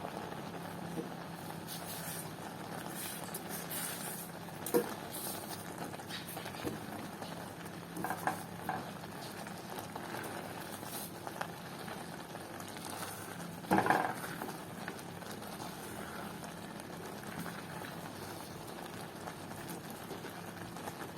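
Water boiling in a pot under a steamer basket: a steady bubbling hiss, with a few short knocks, the loudest about two-thirds of the way through.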